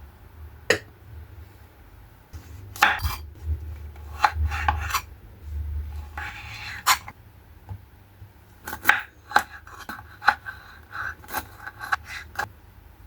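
Irregular light clinks, taps and knocks of small hard objects being handled and set down on a surface, with a short scrape about two-thirds of the way through.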